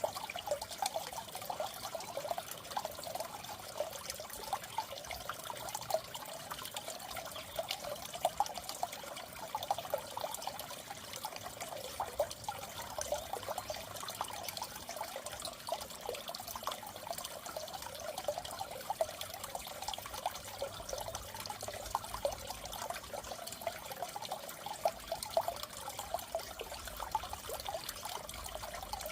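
Aquarium water trickling and bubbling steadily, a continuous stream of small quick splashes.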